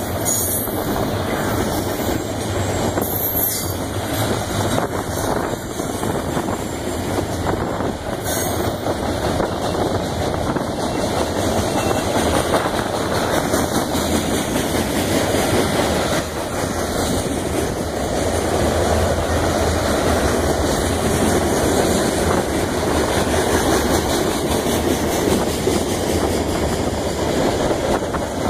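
Freight train cars rolling past close by, steel wheels running steadily on the rails: flatcars loaded with long welded rail, then covered and open hoppers.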